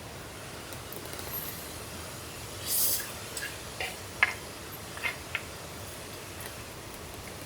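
Steady rain and stream noise in a forest, with a brief hiss about three seconds in and a few light clicks and taps just after it.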